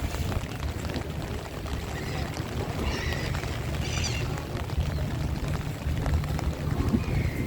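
Strong storm wind buffeting the microphone: a steady low rumble, with a hiss of wind and rain above it.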